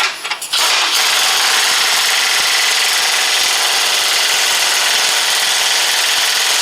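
Power wrench with a socket running steadily, driving a shock mounting bolt home. It starts after a few short clicks about half a second in.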